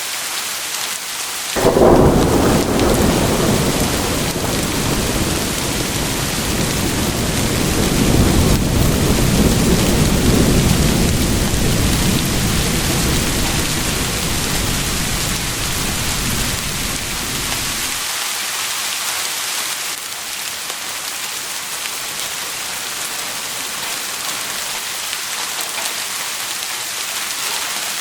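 Steady heavy rain with a thunderclap bursting in about two seconds in. Its deep rumble rolls on and swells again a few seconds later, then stops abruptly about two-thirds of the way through, leaving only the rain.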